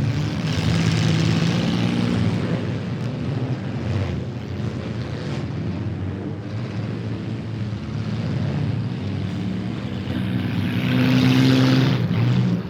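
Several demolition derby cars' engines running and revving together, getting louder about ten seconds in.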